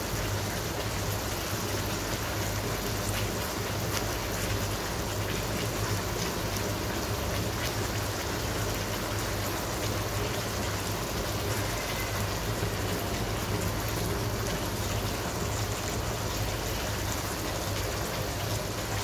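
Fried chicken pieces in a sticky sauce sizzling steadily in a hot wok, over a steady low hum.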